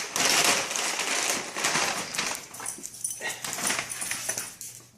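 A puppy nosing and scraping at a giant ham bone: a dense rustling, scraping noise with many small clicks, fading toward the end.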